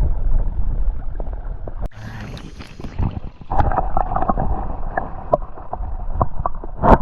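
Water splashing and sloshing, with scattered sharp knocks; the sound cuts off abruptly about two seconds in and starts up again a little different.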